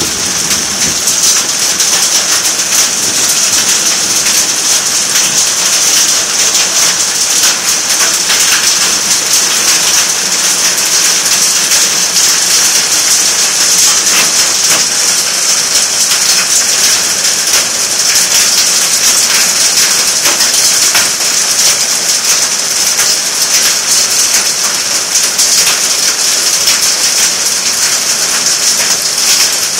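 Heavy rain pouring steadily, a dense, even patter of drops hitting surfaces, with no break or change.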